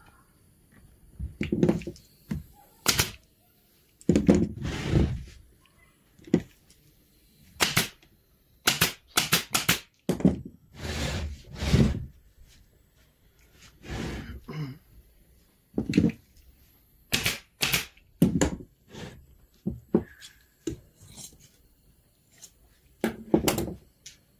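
A string of irregular knocks and thuds, some sharp and some stretched into short rattling or scraping spells of about a second, in a small room.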